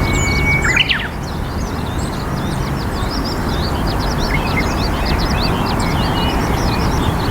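Many small birds chirping in quick, overlapping short notes over a steady background hiss, with one louder call about a second in.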